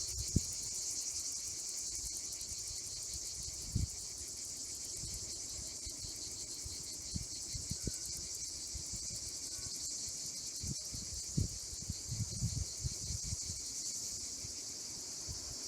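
Steady high-pitched chorus of insects chirring without a break, with scattered low thumps, more of them in the second half.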